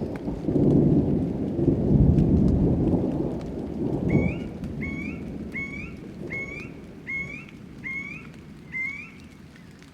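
A long rumble of thunder over steady rain, loudest in the first four seconds. From about four seconds in, a bird repeats a short rising call seven times, about every three-quarters of a second.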